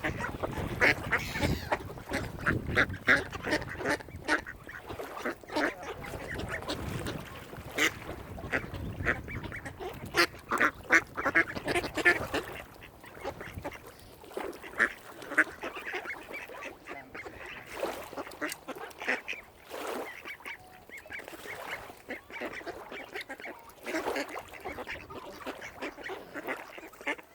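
Waterfowl calling: many short calls, close together for the first dozen seconds and more scattered after that.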